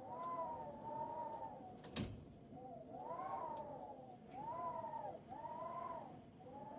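Fireplace and rain ambience: a steady hiss of rain and fire, with one sharp pop of the fire about two seconds in. Over it runs a string of drawn-out tones, each rising and falling over about a second, about six of them.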